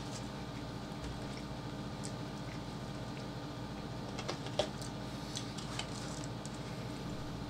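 Small clicks and rustles of fingers handling fried chicken and cardboard food boxes over a steady background hum, with a cluster of clicks in the middle, the sharpest about four and a half seconds in.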